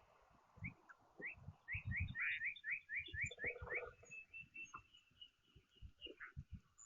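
A songbird singing a run of about ten short upslurred notes, roughly four a second, which ends about four seconds in. Scattered low thumps sound alongside.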